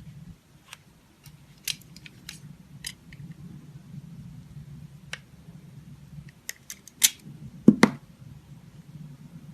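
Dry soap being cut: scattered crisp clicks and snaps, irregularly spaced, with two louder snaps about seven seconds in and a heavier knock just after, over a faint low hum.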